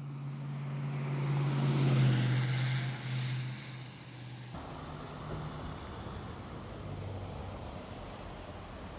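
A motor vehicle's engine hums steadily, growing louder to a peak about two seconds in and then fading. About four and a half seconds in the sound changes abruptly to a steady outdoor background with wind noise.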